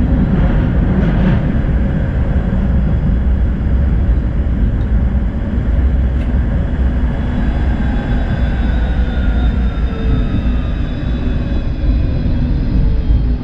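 Electric tram running on its rails with a steady low rumble; from about eight seconds in, the whine of its traction motors falls steadily in pitch as the tram slows.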